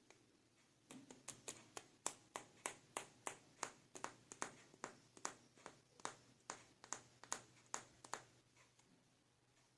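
A run of light, sharp taps or clicks, about three a second, starting about a second in and dying away after about eight seconds.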